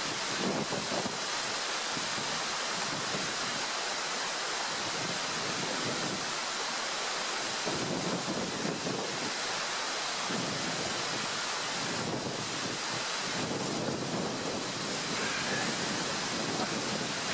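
Bacon and square sausage sizzling in a frying pan, a steady hiss.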